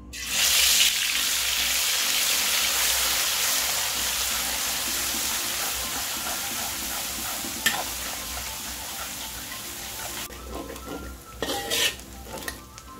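Pounded onion, garlic and green-chili paste dropped into hot sunflower oil in a wok, sizzling loudly at once and slowly dying down as a spatula stirs it. About ten seconds in the sizzle drops away, leaving a few spatula scrapes against the wok.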